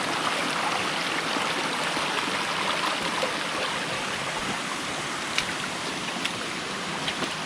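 Stream water rushing steadily over rocks, with a couple of faint clicks in the second half.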